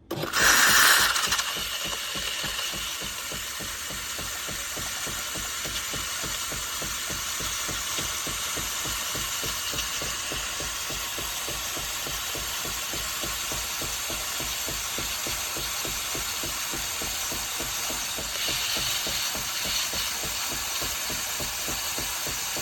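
Philips 3200 Series fully automatic espresso machine running, starting suddenly with a brief louder burst and then holding a steady, fast-pulsing machine sound.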